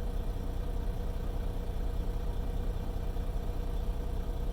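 Semi-truck's diesel engine idling steadily, a constant low drone heard from inside the cab.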